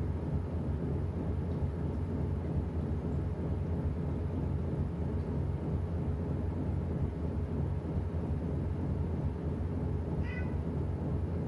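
Washing machine running with a steady low hum. About ten seconds in, a cat meows once.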